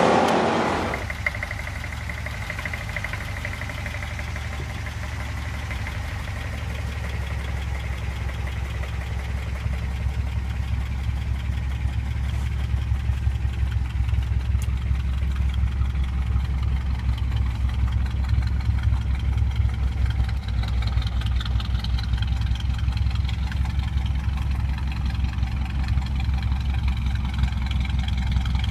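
Car engine idling steadily with a deep, even sound, growing slightly louder over the stretch.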